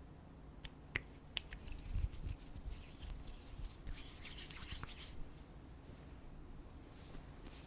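Crickets trilling in one steady high-pitched tone, with close scratching and brushing noises and a few sharp clicks near the start.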